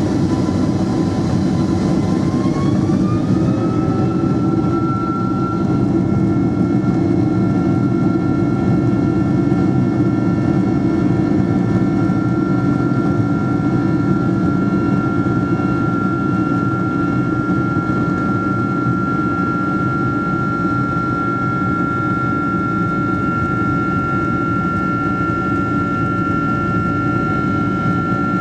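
Boeing 767-300ER jet engines heard from inside the cabin: a steady loud roar with a whine that rises in pitch a few seconds in and then holds, as thrust comes up for take-off.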